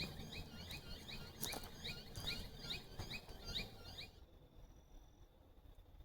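Small creatures chirping in a rapid series of short high chirps, about three a second, which cuts off suddenly about four seconds in; a faint steady high tone remains.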